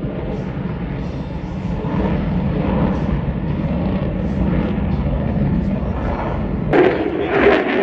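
F-35B Lightning II jet engine rumbling steadily. Near the end the sound turns suddenly louder and harsher.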